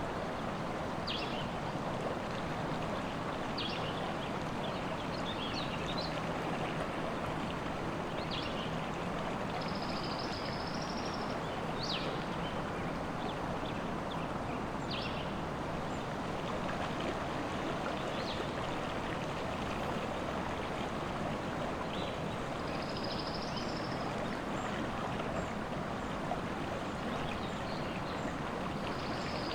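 River water running steadily, with birds singing: short chirps scattered throughout and a few longer high trills.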